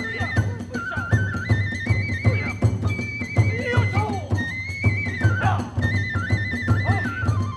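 Kagura hayashi music: a bamboo flute plays a high melody in held notes that step up and down, over steady taiko drum beats a few times a second and quick strikes of small hand cymbals.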